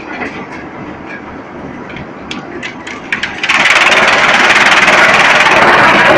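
Drum wood chipper running, with a string of sharp cracks and snaps as wood is broken up. About three and a half seconds in, a much louder, dense rushing noise cuts in suddenly.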